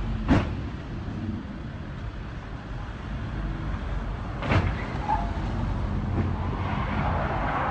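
Steady low rumble of a moving car and road, with two sharp knocks about four seconds apart, the first just after the start.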